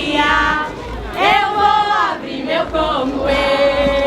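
A group of voices singing together, a choir-like song with notes held, the longest near the end.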